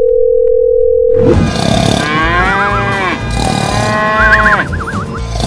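A steady single-pitch beep for about the first second and a half, then two long, loud, drawn-out calls that bend up and down in pitch with a wavering warble, like a cartoon moo or vocal effect.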